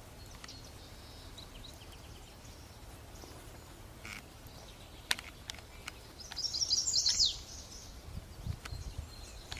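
Wild birds calling, with faint high calls early and then a loud quick run of high chirps about six seconds in, ending in a falling note. A few sharp clicks come just before it.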